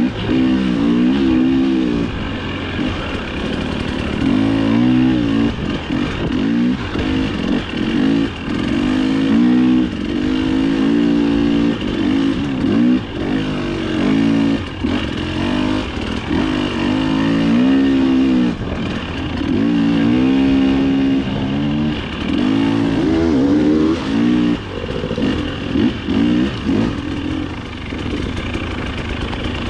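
Dirt bike engine revving up and dropping back over and over as the throttle is opened and closed, pitch climbing and falling every few seconds.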